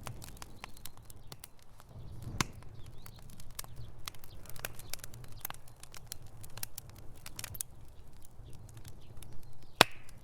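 Wood fire crackling in a fireplace: irregular pops and snaps over a low steady rumble, with one sharp louder pop near the end.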